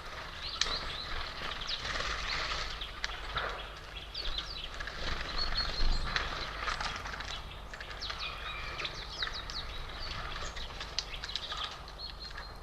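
Many small songbirds at a feeder, chirping and calling in quick, overlapping short notes, over a low steady rumble.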